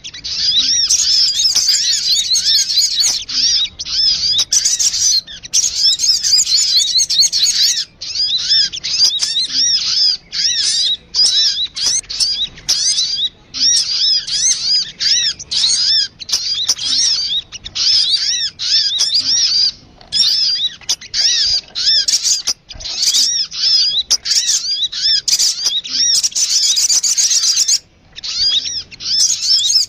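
Recorded calls of the sogun bird played as a lure: a dense, unbroken run of quick, high chirping notes that rise and fall, stopping only for a few short breaks.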